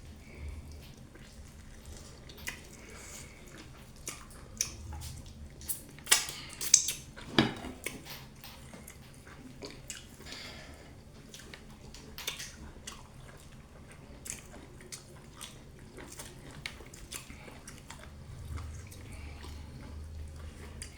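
Close-up eating sounds of someone eating fufu and soup: wet chewing and mouth smacks, short and irregular. A run of louder smacks comes about six to seven and a half seconds in.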